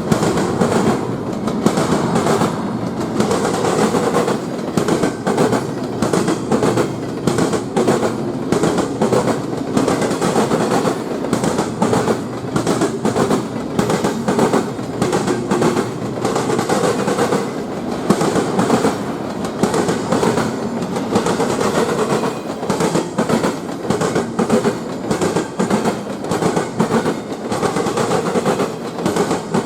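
Railroad cars rolling past, their wheels clattering over rail joints and switches in fast, continuous clicks over a steady rumble.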